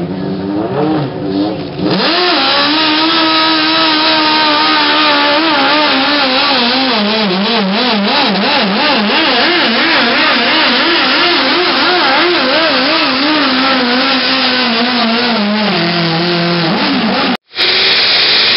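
Modified pulling garden tractor engine at full throttle under load during a pull: the revs climb and hold, then waver quickly up and down through the middle of the run and sag toward the end. All sound cuts out briefly near the end, then the engine is heard again.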